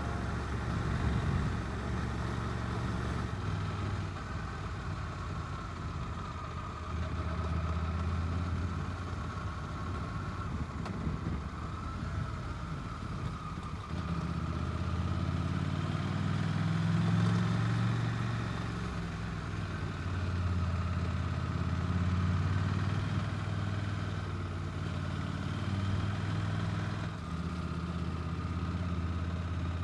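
Motorcycle engine running steadily at low revs, with the note swelling slightly a few times, over wind noise.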